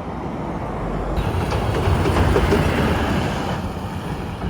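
A bus passing close by, its engine and tyre noise swelling to a peak about two seconds in and then easing off.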